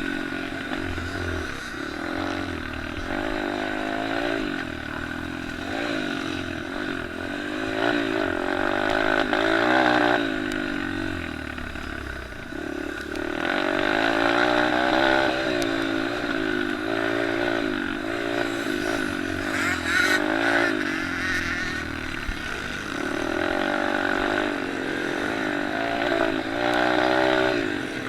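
Several small-displacement pit bike and mini motocross engines racing, their pitch rising and falling again and again as the riders open and close the throttle and change gear.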